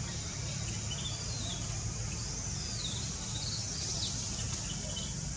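Several short, high-pitched chirping calls that glide up and down, heard over a steady high hiss and a low steady rumble.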